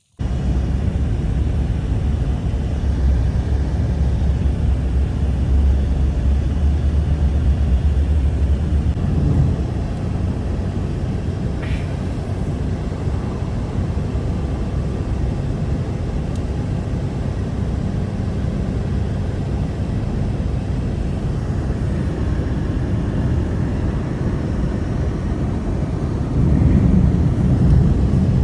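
Strong blizzard wind, a steady deep rushing noise that eases a little after about nine seconds and swells again near the end.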